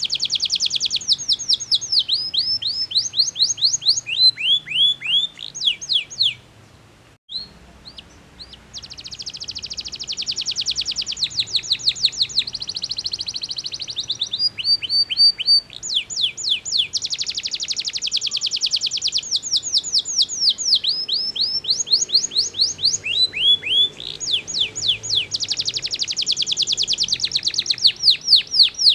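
Domestic canary singing a long, loud song of fast trills and repeated down-sweeping whistled notes, with a brief pause about seven seconds in.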